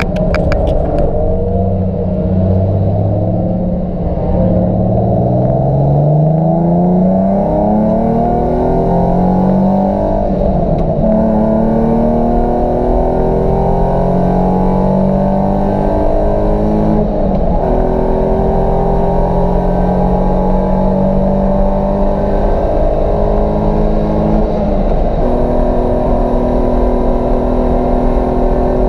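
Nissan 350Z's 3.5-litre V6 engine pulling hard on track, its pitch climbing through the revs and dropping back at each gear change, several times over.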